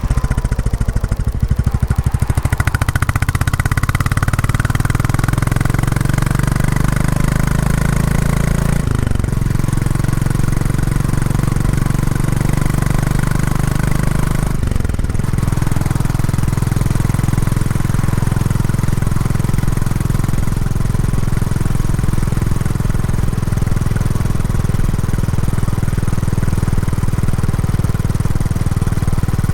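Royal Enfield Classic 350's single-cylinder engine through its stock exhaust, pulling steadily while riding on a break-in run. The engine note rises slowly and dips briefly twice, about nine and fifteen seconds in, at upshifts.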